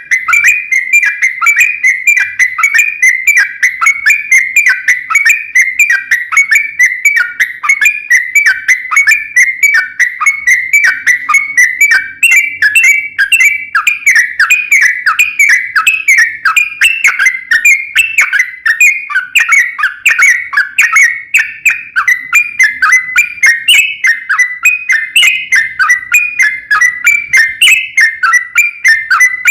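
Yellow-vented bulbul (trucukan) singing a long, unbroken run of short whistled chirps, about three or four a second: the rapid 'ropel' song used as a lure to set other birds singing.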